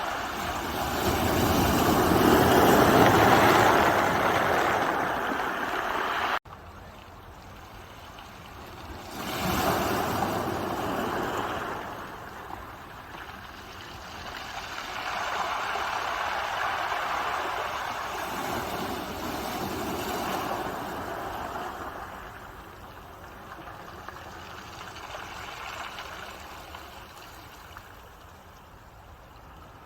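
Ocean waves breaking and washing up the shore, rising and falling in swells every few seconds. The loudest wave comes first and is cut off abruptly about six seconds in.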